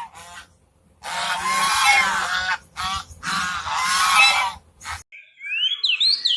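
A farm animal calling: two long drawn-out calls alternating with short ones. About five seconds in it cuts off suddenly to a small bird chirping in quick rising notes.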